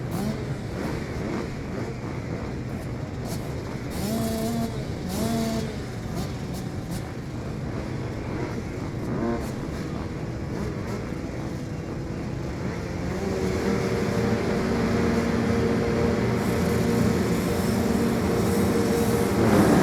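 Motocross bike engines revving at the start of a race: two short blips of revs a few seconds in, then several engines held at steady high revs, growing louder toward the end.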